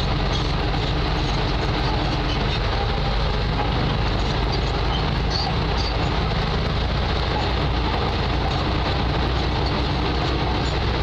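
Diesel engine of heavy earthmoving machinery running steadily: a constant low rumble with a hissing noise over it.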